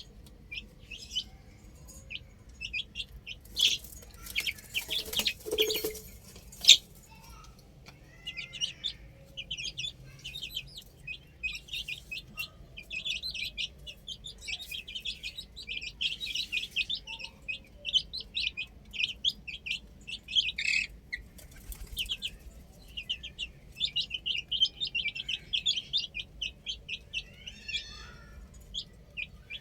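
Baby chicks peeping: a steady run of many short, high, rapid peeps from several birds. A few seconds in come some scuffing knocks and one sharp click.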